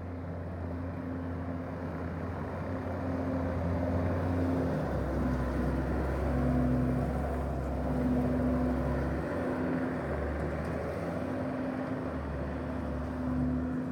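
Bobcat T590 tracked skid steer's diesel engine running steadily, its low hum shifting in level a few times.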